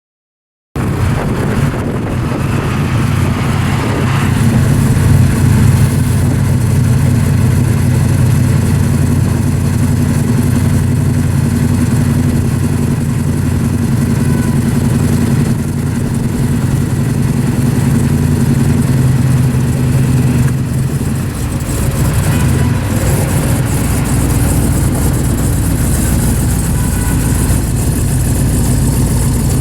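Twin-turbo Dodge Challenger SRT8's Hemi V8 running steadily with a low, even drone, starting abruptly just under a second in.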